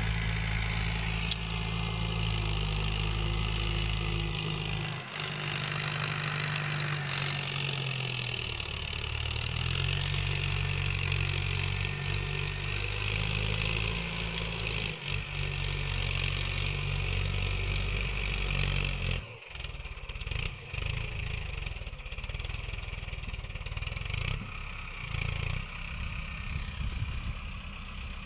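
Hindustan 60 tractor's diesel engine running, its pitch dipping and rising a few times in the first half. About two-thirds of the way through the sound drops out briefly, and after that the engine note is rougher and less even.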